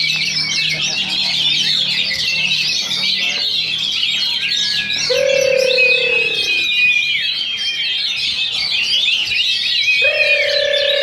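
Oriental magpie-robins singing in competition, a dense, continuous mix of rapid chirps, trills and whistles from several birds at once. Twice, about five seconds apart, a long lower tone slides down in pitch over the song.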